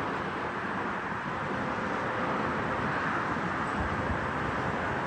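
Steady jet roar of an Airbus A330-300's Rolls-Royce engines, swelling slightly midway, with wind buffeting the microphone.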